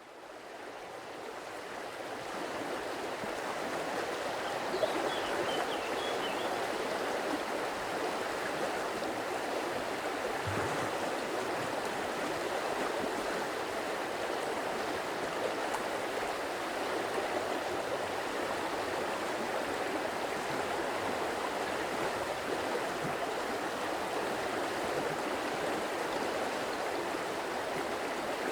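Water running in a stream, a steady rushing that fades in over the first few seconds and then holds even.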